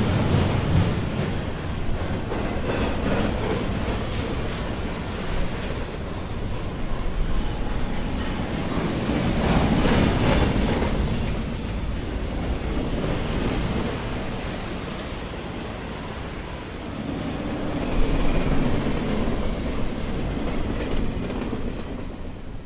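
A train running along the rails, a continuous rumble with wheel noise that swells about halfway through and again near the end.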